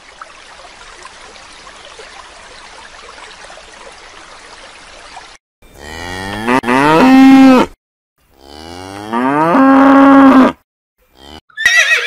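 A cow mooing twice, each moo about two seconds long, rising in pitch and then held steady. Before the moos there is only a faint even hiss, and at the very end a high-pitched horse whinny begins.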